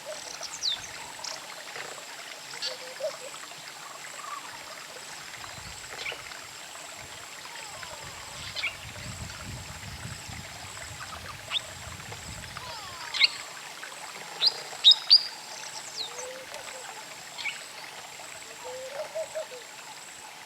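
Wild birds chirping: scattered short, sharp calls over a steady outdoor hiss, loudest in a cluster about two-thirds of the way through. A faint low rumble runs through the middle.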